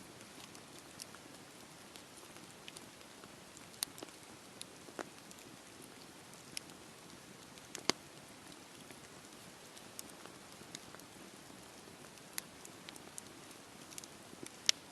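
Wood fire burning in a fireplace: a soft steady hiss with scattered sharp crackles and pops, the loudest about eight seconds in and again near the end.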